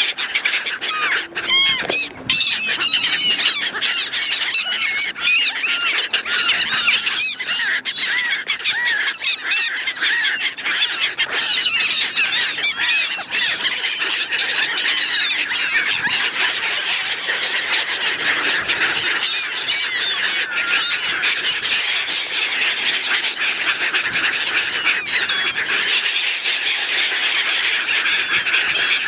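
A large flock of gulls calling constantly, many shrill squealing cries overlapping with no break, as they mob for thrown snacks.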